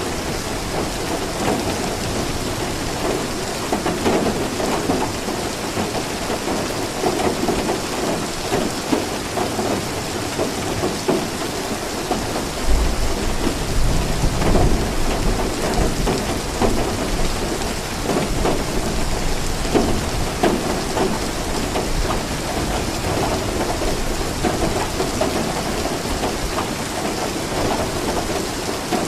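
Steady rain falling, with a low rumble of thunder about halfway through that lasts a few seconds.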